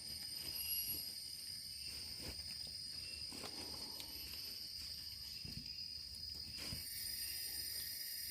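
Rainforest insects, crickets or cicadas, keeping up a steady high-pitched chorus, with a few faint knocks.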